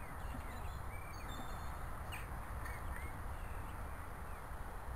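Birds chirping, a scatter of short rising and falling notes, over a steady low background rumble.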